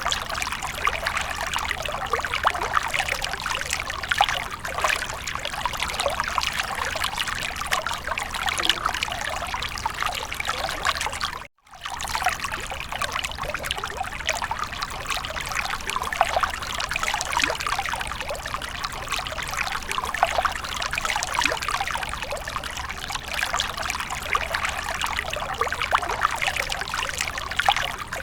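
Water fountain trickling and splashing steadily, breaking off for an instant about eleven seconds in.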